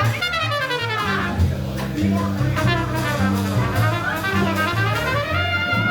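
Live jazz combo playing: a brass horn runs quickly up and down over a bass line that steps from note to note.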